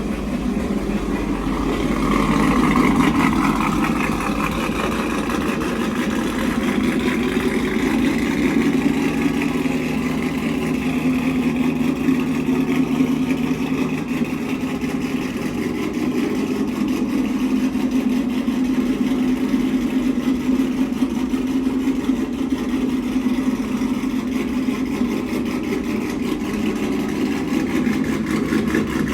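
2005 GMC Sierra pickup's engine idling steadily, a little louder about two to three seconds in.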